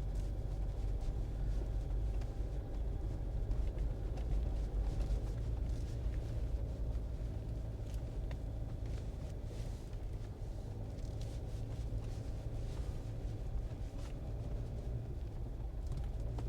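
Cabin noise inside a soft-top Jeep while driving: a steady low rumble of engine and tyres on the road.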